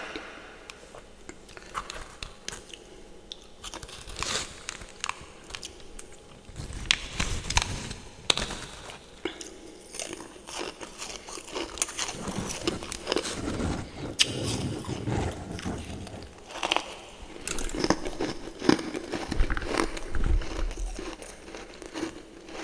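Refrozen freezer frost topped with fresh powdery frost being bitten and chewed close to the microphone: irregular crisp crunches and crackles, with heavier chewing bites in the middle and later part.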